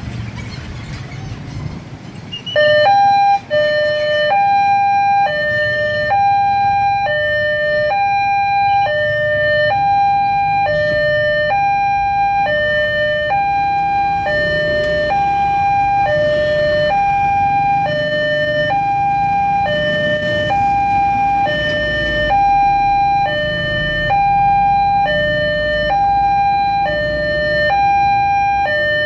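Railway level crossing warning alarm, the replacement alarm on a Siemens crossing, switching on suddenly about two and a half seconds in. It then sounds a steady two-tone hi-lo alternation, about one high-low pair a second, over a low traffic rumble.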